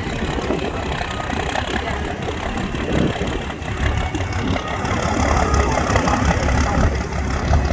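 A pulling tractor's engine running steadily at idle, with a strong, even low note.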